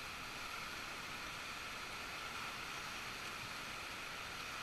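Steady rushing of river water, an even hiss with no distinct splashes or strokes.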